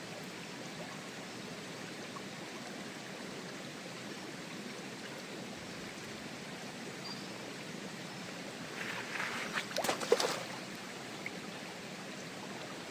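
Stream flowing steadily, with a short cluster of clicks and knocks about nine to ten seconds in.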